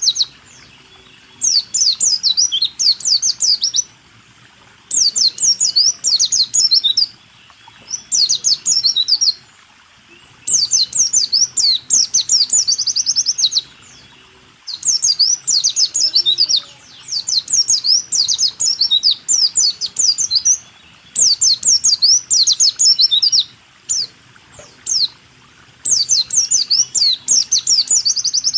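White-eye (pleci) singing its rolling 'rool tembak' song: about ten phrases of rapid high chirps and trills, each two to three seconds long, with brief pauses between them.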